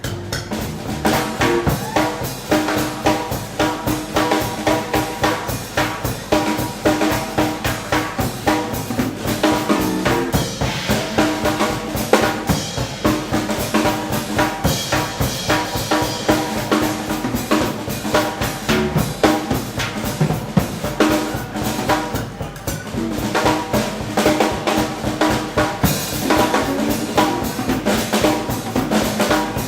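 Live swing band playing an instrumental passage, with the drum kit's snare and bass drum driving a fast, steady beat under held pitched notes from the band.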